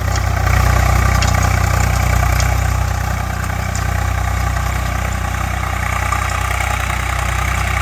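Swaraj 744 FE tractor's three-cylinder diesel engine running steadily with a deep, even rumble, a little louder in the first couple of seconds.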